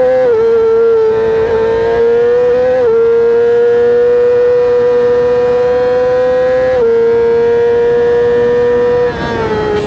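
Yamaha R6's inline-four engine at very high revs under full throttle, heard from on the bike: the pitch climbs slowly and drops sharply with three quick upshifts, the first about a second in. Near the end the throttle closes and the note falls away for braking.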